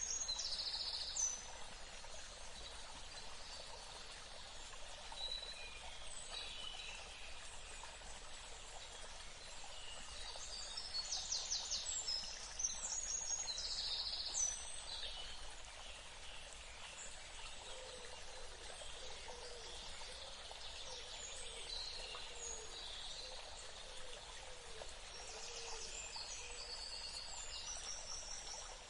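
Forest birds calling and singing over a steady background hiss, with clusters of quick, high chirps and trills near the start, around the middle, and near the end, and some faint lower calls in between.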